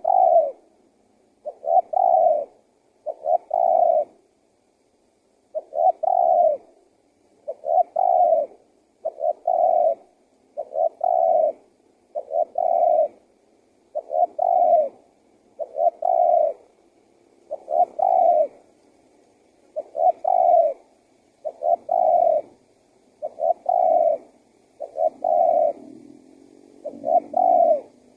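Male spotted dove (tekukur) cooing over and over, a low coo phrase roughly every one and a half seconds with a brief pause about four seconds in.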